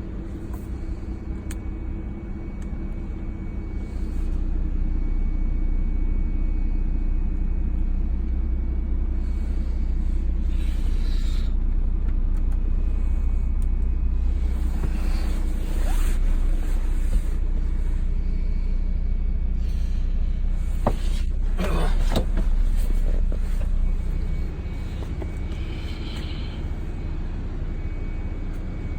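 Toyota Supra Twin Turbo's 2JZ-GTE twin-turbo inline-six idling with a steady low rumble. It gets louder about four seconds in and drops back a few seconds before the end.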